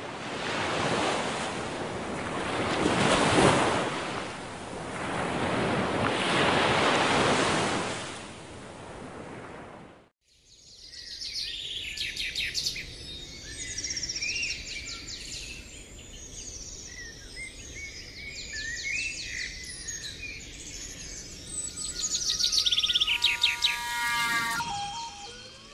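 Surf washing in, two swells of waves one after the other, cutting off suddenly about ten seconds in. Then many wild birds singing, with quick high chirps and trills overlapping.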